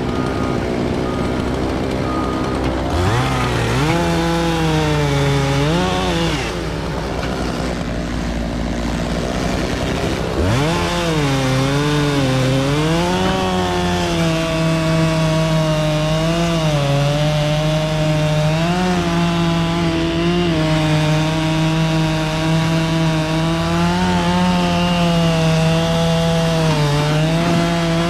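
Two-stroke chainsaw revved up about 3 s in, eased off, then revved again about 10 s in and held at high speed, its pitch dipping and recovering as the chain bites into the wood.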